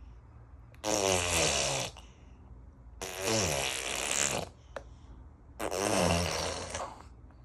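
A baby making three breathy, hoarse vocal sounds about a second long each, the pitch sliding downward in each one.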